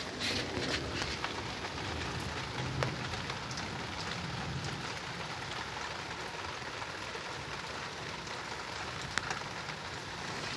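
Very heavy rain falling: a steady hiss of rain with scattered sharp drips and taps, two of them standing out near the end.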